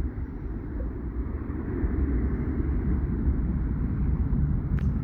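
Boeing 737 jet engines at takeoff power: a steady low roar with a hiss above it, growing slightly louder about two seconds in.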